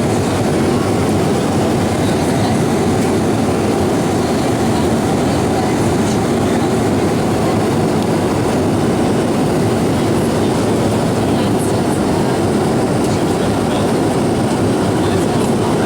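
Steady cabin noise inside a four-engined Avro RJ-85 jetliner in flight: an even rumble of airflow and turbofan engines, with no change in level.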